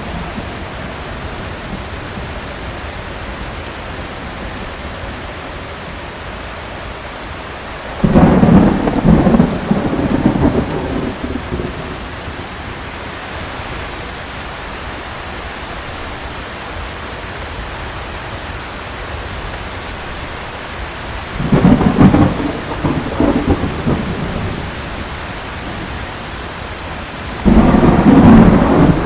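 Heavy rain falling steadily, broken by three loud rumbling claps of thunder: about eight seconds in, about twenty-one seconds in, and again near the end.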